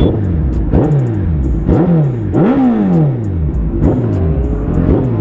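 Suzuki Hayabusa Gen-2's 1340 cc inline-four, fitted with a full-system exhaust, revved in about six quick throttle blips, each rising sharply and falling away; the biggest one comes about halfway through.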